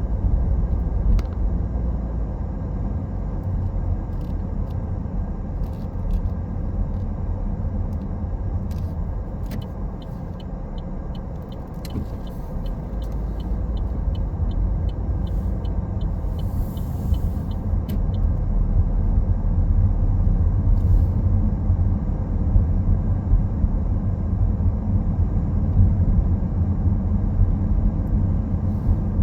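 Car driving along a road: steady low rumble of engine and tyres. For several seconds in the middle there is a run of light, evenly spaced ticks, about two a second.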